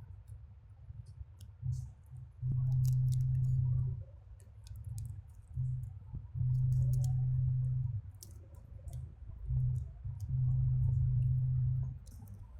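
Small scattered clicks and taps, typical of handling small parts of a device during repair, over a low steady hum that switches on for about a second and a half roughly every four seconds, each time after a short blip.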